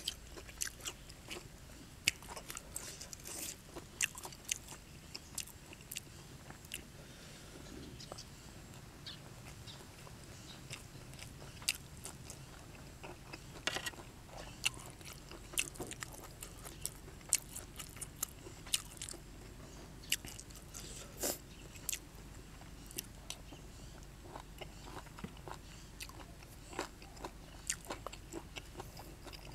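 Close-miked chewing: a mouthful of raw beef with fresh raw vegetables being chewed, with irregular sharp crunches and wet mouth clicks scattered throughout.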